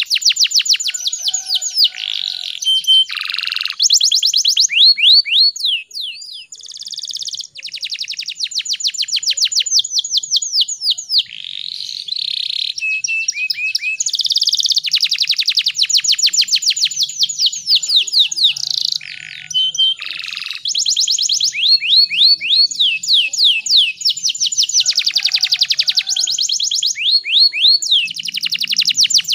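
Domestic canary singing: long fast trills of quickly repeated rising notes, broken by short chirps, brief held whistles and a few short pauses.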